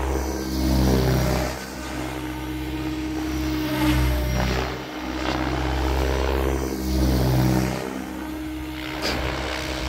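700-size KDS Agile 7.2 radio-controlled helicopter flying 3D manoeuvres: a steady rotor and drive hum under rotor-blade whooshing that swells and fades every second or two as the blade pitch and the helicopter's distance change.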